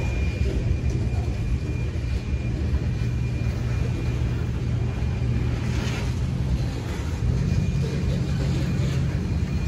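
Freight train of open-top hopper cars rolling past: a steady rumble of steel wheels on the rails, with a faint, steady high whine through much of it.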